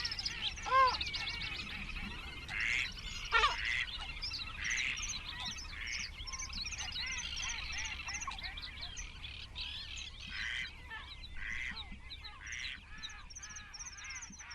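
Several birds calling at once: a dense mix of fast high chirps and trills with short arched calls, the loudest about a second in and about three and a half seconds in.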